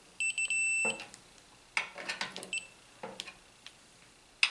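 Multimeter continuity beeper sounding a high tone, stuttering a few times and then holding for about half a second, the sign that the ignition breaker points are closed and conducting to engine ground. Scattered clicks and clatter of metal tools being handled follow.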